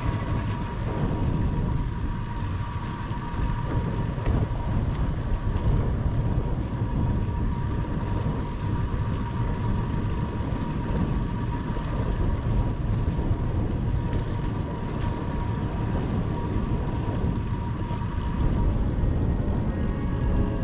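Wind rushing over the microphone of a camera riding on a moving bicycle, with road and tyre noise: a steady low rumble with a faint constant high tone.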